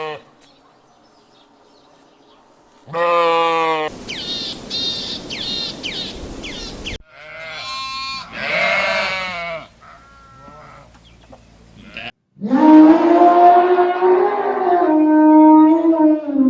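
A series of animal calls from different clips: a short call, a noisy stretch of rapid falling chirps, more calls, then one long, loud drawn-out call near the end, bleat-like and typical of livestock such as goats.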